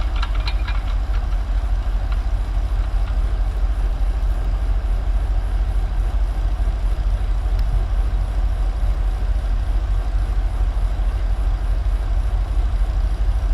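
Heavy diesel engine of a recovery vehicle running steadily under load, with a deep low rumble, as it pulls a stuck 35-ton excavator out of clay with nearly 100 tons of pulling force.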